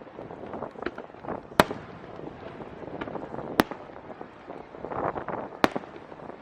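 Firework shells bursting: three sharp bangs about two seconds apart, with fainter crackles and pops between them.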